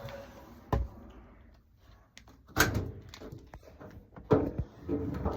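Interior door being handled and shut: a light knock, then a louder thud a couple of seconds in, followed by smaller knocks and clatter.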